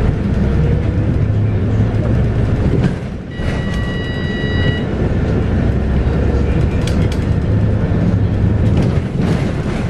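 Scania K230UB bus's 8.9-litre five-cylinder diesel engine running with the bus under way, heard from inside. The drive noise dips briefly about three seconds in, then a high beep sounds for about a second and a half, with a couple of short clicks later.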